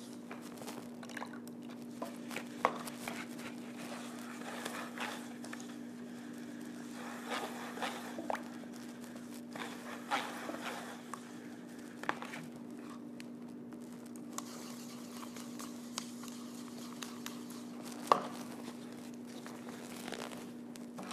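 Painting work on a stage backdrop: irregular brushing, scraping and tapping, with a few sharper clicks, over a steady low hum.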